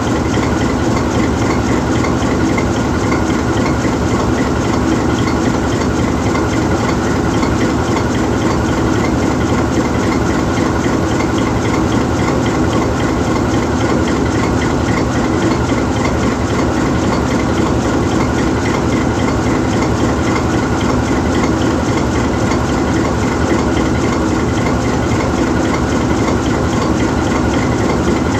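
GE U20C diesel-electric locomotive standing still with its 12-cylinder FDL diesel engine idling, a steady, even running sound that holds without change.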